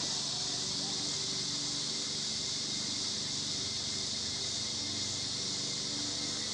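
Steady high-pitched hiss, with a faint, uneven low hum underneath.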